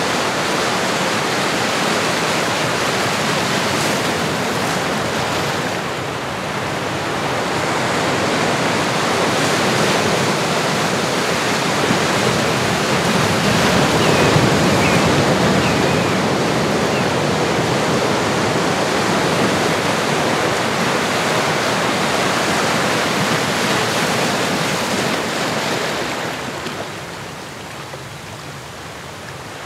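Ocean surf: a steady rush of waves that swells and eases, and grows softer near the end.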